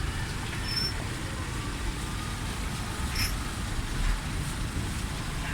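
Steady low engine rumble with traffic noise on a busy car ferry.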